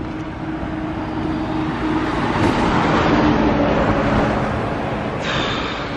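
A car passing on the road, its tyre and engine noise swelling to its loudest about three seconds in and then fading away.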